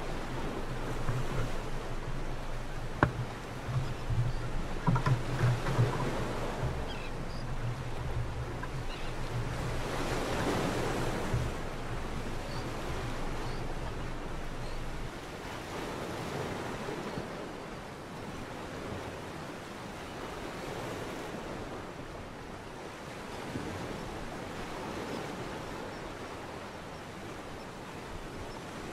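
Sea water rushing and washing against a sailing boat, the rush swelling and easing, with wind on the microphone. A low hum fades out about twelve seconds in, and a few knocks come early.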